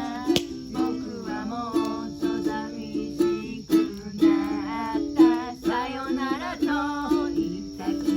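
Ukulele strummed in a steady rhythm of repeated chords, with a voice singing a melody over it.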